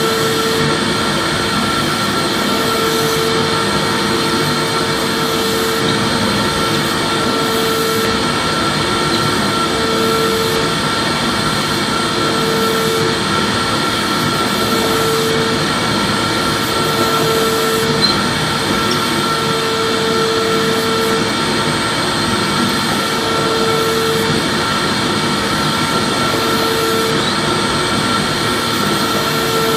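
Vacuum cleaner running steadily: a constant rushing hum with a thin high whine over it. A lower tone swells in and out every couple of seconds.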